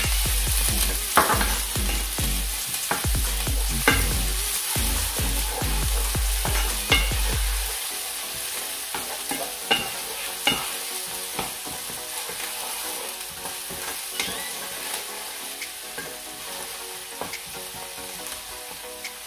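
Garlic and onions frying in hot oil in a pan, sizzling steadily while a wooden spatula stirs them and knocks and scrapes against the pan. There is a low rumble for about the first eight seconds, and the sizzle gradually quietens.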